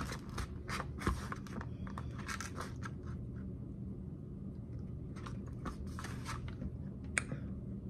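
Someone chewing a mouthful of salad vegetables (beet, cucumber, onion), heard as a run of short, sharp mouth clicks and crunches. They come in two spells with a lull in between.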